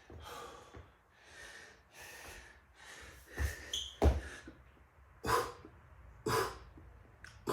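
Heavy, rhythmic breathing of a man mid-burpee set. From about halfway through come several sharp thumps of hands and feet on the floor, with forceful exhales, as a 3-pump burpee is performed.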